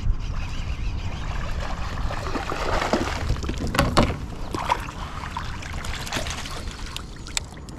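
Water sloshing and trickling against a kayak as a hooked bass is brought in. A few sharp splashes or knocks come in the middle.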